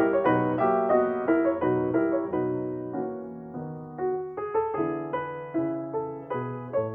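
Background piano music: a gentle melody of separate notes struck a few times a second, each fading away.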